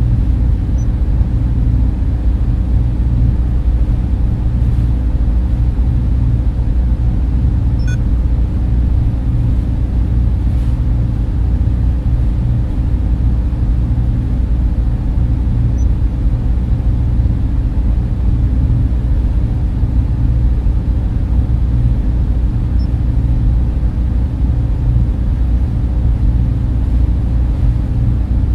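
Data center ambience: the steady, low hum of server and cooling fans, unchanging throughout.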